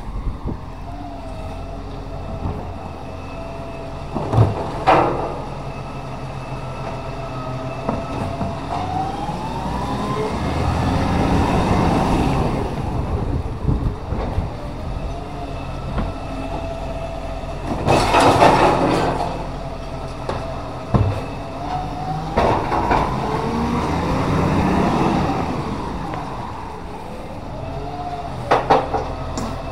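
Recycling truck working a collection: its engine and hydraulics rev up twice with a rising whine. In between come sharp knocks and a loud clatter about two-thirds of the way through, typical of a bin being tipped into the hopper.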